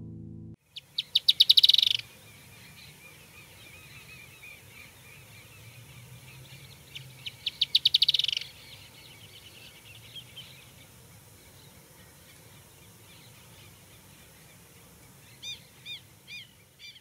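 Songbird singing: two loud, rapid trills, each quickening and swelling over about a second, one near the start and one about seven seconds in, with softer chirping between them and a short series of four or five clear rising-and-falling notes near the end.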